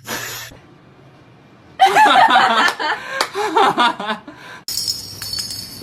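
A person laughing hard for about three seconds in quick broken bursts, after a brief noisy rustle at the start; the sound changes abruptly near the end.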